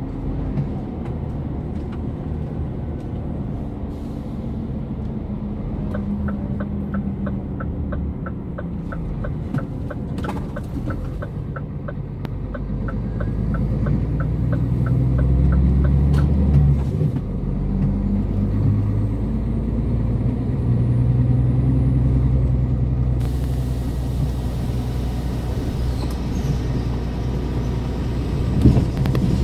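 Scania R410 truck's diesel engine running under way, its low drone growing louder and shifting pitch as the truck pulls harder about halfway through. For several seconds before that, a rapid, even ticking runs alongside it, typical of the turn-signal indicator.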